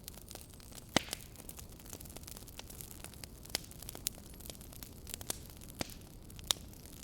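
Wood fire in a fireplace burning with a steady low hiss, broken by irregular sharp pops and crackles, the loudest about a second in and again near the end.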